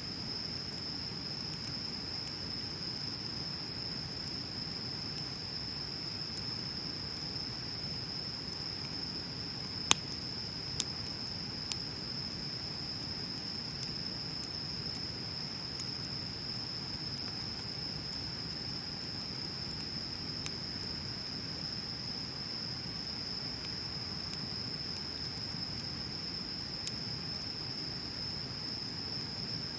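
Wood bonfire burning with a low, steady rush and a few sharp crackles and pops, three close together about ten seconds in. A steady high-pitched insect drone runs underneath.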